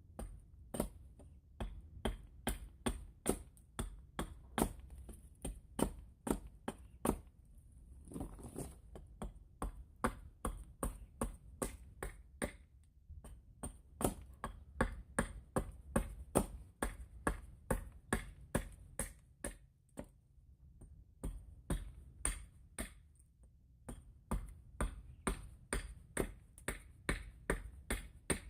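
Repeated sharp knocks of wood being struck, about two a second, with a couple of short pauses.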